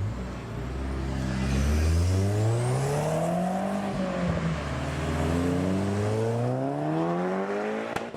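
An Audi's engine accelerating hard away through the gears. The revs climb, drop at a gearshift about four seconds in, then climb again before the sound cuts off abruptly near the end.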